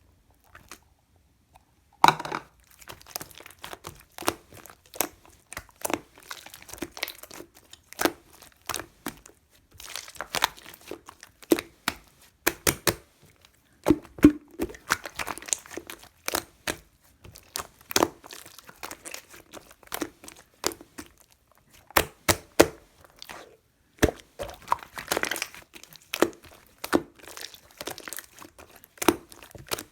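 Close-up crinkling and tearing sounds with many sharp, irregular clicks and taps, as of crinkly material being handled and torn. It starts suddenly about two seconds in and continues unevenly.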